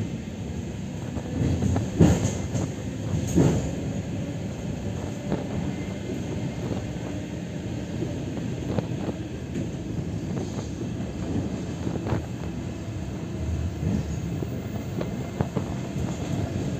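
Suburban electric train running, heard from inside the carriage: a steady rumble of wheels on the rails with scattered clacks, the loudest two about two and three and a half seconds in.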